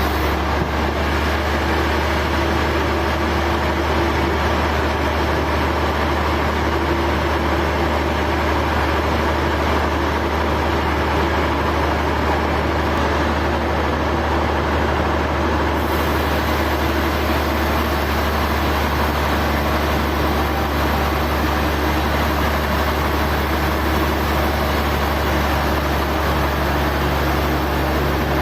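Heavy sawmill machinery running steadily, a loud, constant engine-like drone with a low hum underneath.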